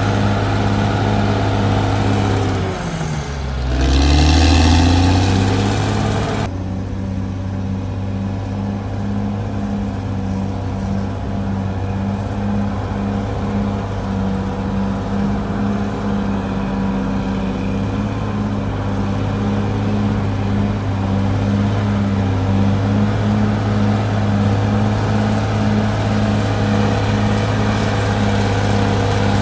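Caterpillar D6R XL bulldozer's diesel engine running steadily, with a brief sweep in pitch, falling then rising, a few seconds in.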